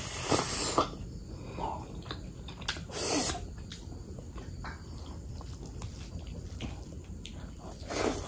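Close-miked chewing and wet mouth sounds of a person eating spicy mutton curry with rice by hand, with small clicks throughout and a louder burst about three seconds in.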